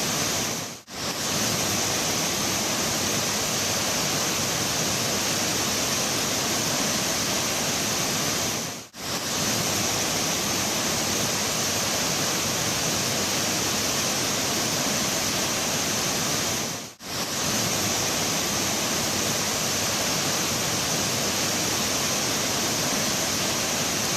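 Mountain river water rushing in a steady, even wash of noise. It drops out briefly three times, about eight seconds apart.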